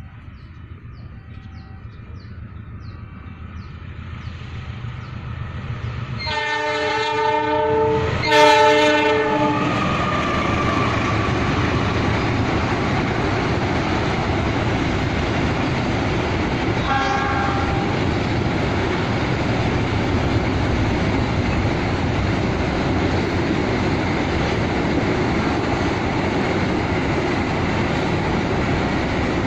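A freight train approaches. Its locomotive sounds two loud blasts on a multi-tone horn about six to nine seconds in, then a short, fainter toot a little later. The train then passes with a steady rumble and clickety-clack of wagon wheels over the rail joints.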